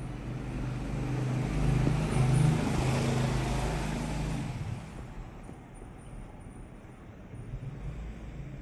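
A motor vehicle passing close by: engine hum and tyre noise build to a peak about two to three seconds in, then fade away by about five seconds.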